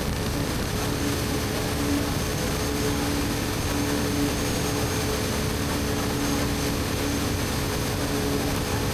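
BMW R1250GS Adventure's boxer-twin engine running through an Akrapovic slip-on exhaust at a steady cruise, its note held level over an even rush of wind and road noise.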